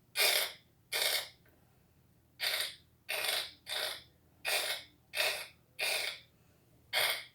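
Steam-train chuffing made with the mouth: a string of short, breathy puffs, about one every two-thirds of a second, with a brief pause near the start.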